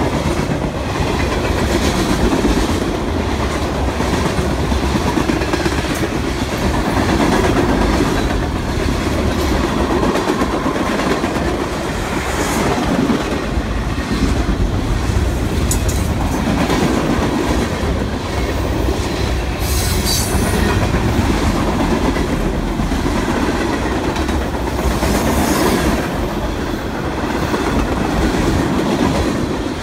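Freight cars of a Kansas City Southern train rolling past at close range: a steady rumble with the clickety-clack of wheels over rail joints. Brief high wheel squeals cut in about halfway through and again about two-thirds of the way in.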